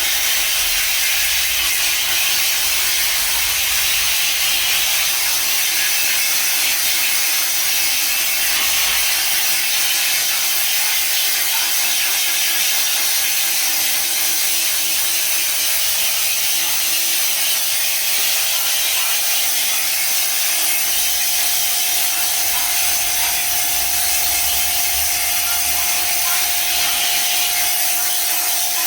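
Steady hissing spray of a pressure washer jet, with the washer's motor humming at a steady pitch underneath.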